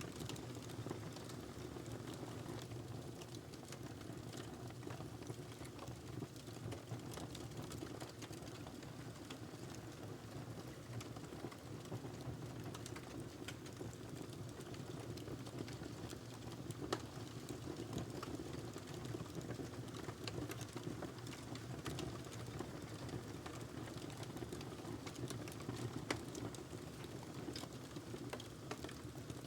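Wood fire crackling in a fireplace: irregular sharp pops and snaps over a steady low rumble of burning, with a couple of louder pops in the second half.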